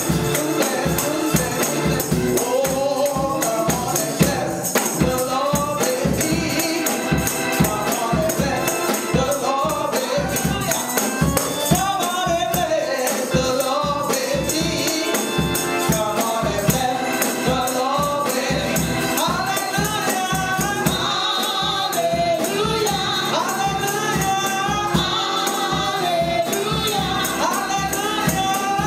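Gospel praise song: voices singing together over a steady, driving beat with tambourine.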